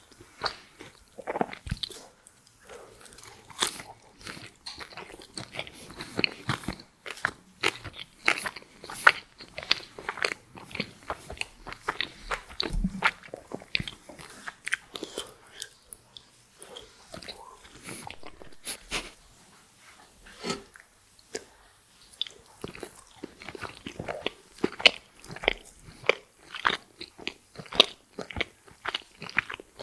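Close-miked eating of crispy french fries with cheese sauce: a dense, irregular run of bites, crunches and chewing.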